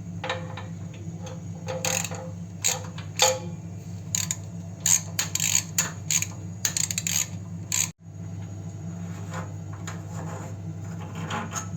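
Metallic clicks, clinks and knocks as the ceramic igniter (glow plug) is worked loose and pulled out of a pellet stove, busiest in the first two thirds, over a steady low hum.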